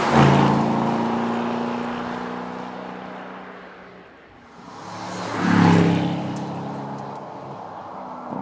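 Aston Martin DBX 707's twin-turbocharged 4.0-litre V8 exhaust, heard in two swells. The first starts suddenly and fades over about four seconds. The second builds about five seconds in and fades away.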